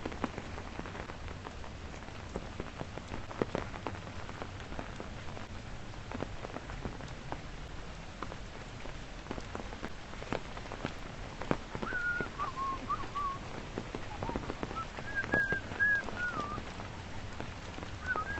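Steady rain falling, with scattered drops tapping close by. In the last several seconds a few short, wavering whistled notes come in over the rain.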